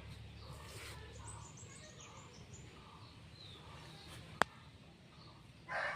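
Faint outdoor background with small high bird chirps and a single sharp click about four seconds in; near the end a rooster starts to crow, loud.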